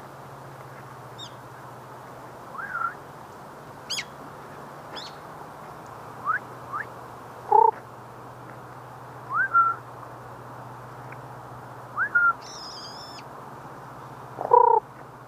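Several birds calling at intervals: short rising chirps that end on a brief held note, a couple of lower, louder calls, and a few high thin whistles, over steady background noise with a low hum.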